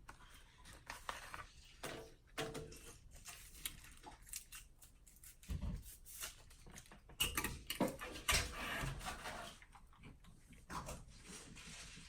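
People eating a fried chicken sandwich: irregular chewing, smacking and crunching sounds, a little louder about halfway through.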